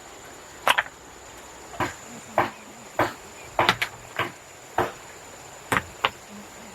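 A series of about ten short knocks and scrapes at uneven intervals, like a hand tool working, over a steady high thin whine.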